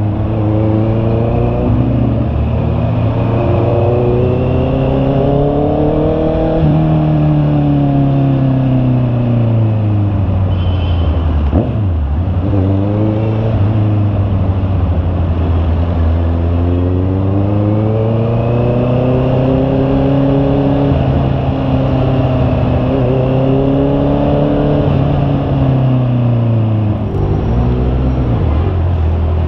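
Honda CB650R's 649 cc inline-four engine running on the road, its pitch climbing under acceleration and falling back as it slows, twice over.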